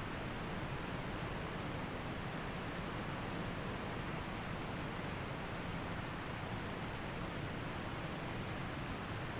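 Waterfall rushing steadily: an even, unbroken noise of falling water with no separate events.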